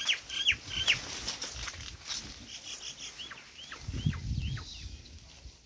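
A small bird calling in quick runs of short falling chirps, about five a second: one run at the start and another from about two and a half seconds in. Goats browsing through leafy plants make a faint rustle under it, a little louder about four seconds in.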